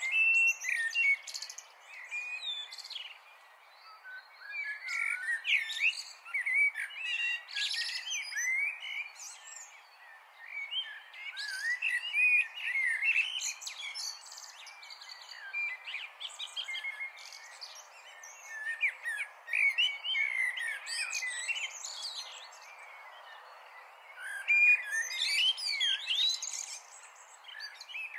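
Small birds chirping and twittering, many short overlapping calls in bouts with brief lulls, over a steady background hiss.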